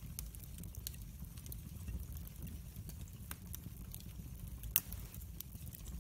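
Wood fire burning in a fireplace: a steady low rumble of flames with scattered crackles and one louder pop just under five seconds in.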